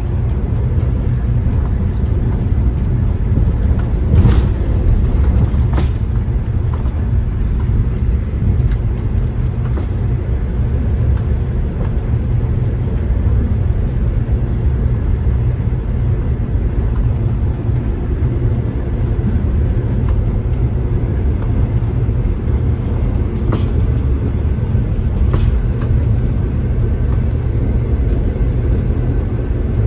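V/Line diesel train running at speed, heard from inside the carriage: a steady low rumble of engine and wheels on the rails. Two pairs of short, sharp knocks stand out, one pair a few seconds in and another about two-thirds of the way through.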